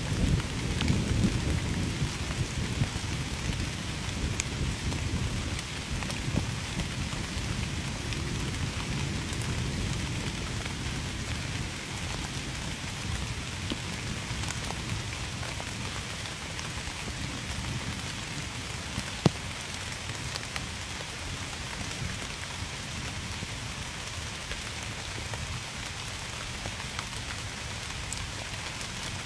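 Steady rain falling on a surface, with a low rumble of thunder at the start that fades over the first several seconds. A single sharp click about two-thirds of the way through.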